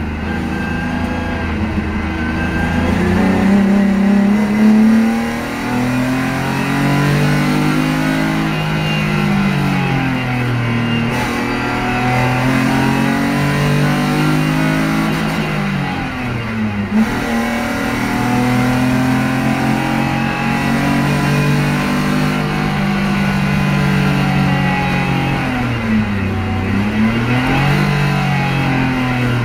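BMW E30's M50 straight-six engine heard from inside the cabin on track, revving hard and dropping back over and over as it is driven through gears and corners. The pitch climbs steadily, then falls sharply three times: about five seconds in, just past halfway, and near the end.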